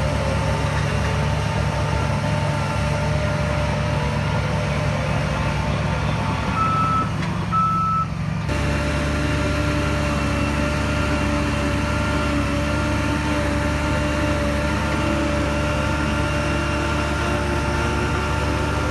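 Heavy earthmoving machine's diesel engine running steadily under work, with two short reversing-alarm beeps about seven seconds in. The engine's tone shifts abruptly at about eight and a half seconds.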